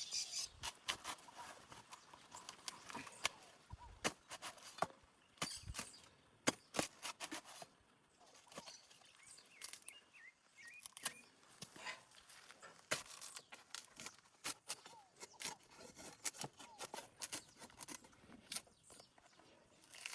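A hoe blade chopping at a coconut's fibrous husk to strip it, giving many sharp knocks at irregular intervals.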